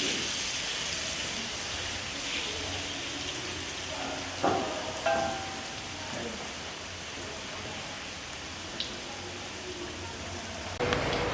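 Hot oil sizzling steadily as purple sweet potato chips fry for a second time until crisp, with a couple of brief knocks from a utensil about halfway through.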